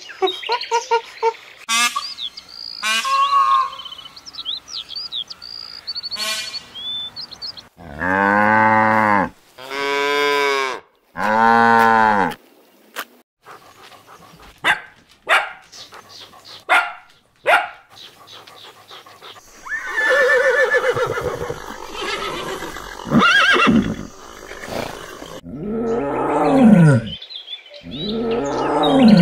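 Cats meowing and yowling in a string of short clips, including three long, drawn-out calls in a row about a third of the way in and more calls near the end, with short knocks and clicks between.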